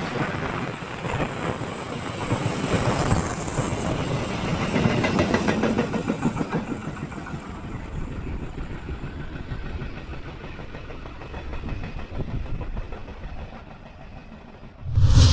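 Passenger train rolling past, its wheels clattering rhythmically over the rail joints, the noise slowly fading as the carriages draw away. A short, loud thump comes near the end.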